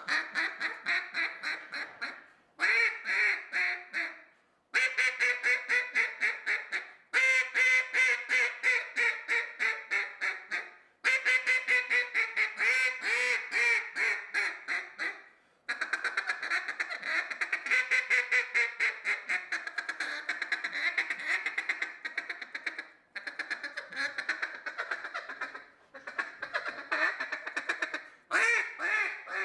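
Reed duck call blown by mouth in long strings of rapid quacks, several runs broken by short pauses for breath, imitating hen duck calling.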